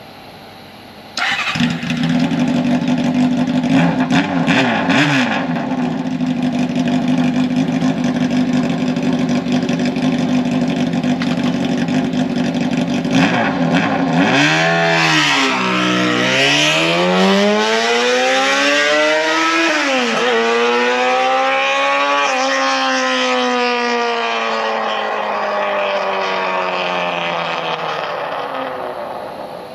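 Kawasaki ZRX400 inline-four with a straight-pipe exhaust fires up about a second in and idles loudly, with a few brief blips of the throttle. From about halfway the revs rise and fall several times, then the pitch sinks slowly as the sound fades near the end.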